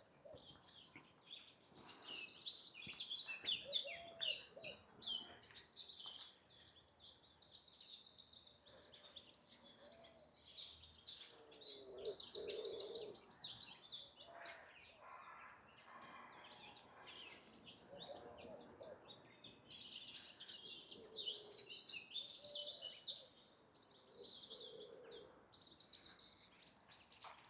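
Songbirds singing: several high-pitched songs with fast trills, overlapping and carrying on almost without a break.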